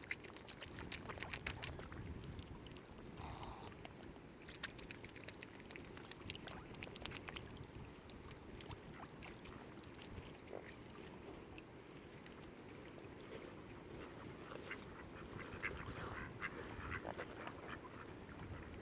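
Ducks and other waterfowl calling softly, with a brief call about three seconds in and many short scattered clicks over a steady low background.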